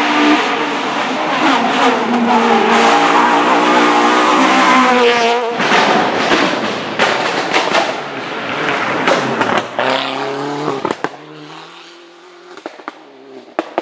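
Hill-climb racing car's engine at high revs, its pitch climbing, then breaking off at a gear change about halfway through. A run of sharp exhaust cracks and pops follows, and in the last few seconds the engine note is lower and fainter.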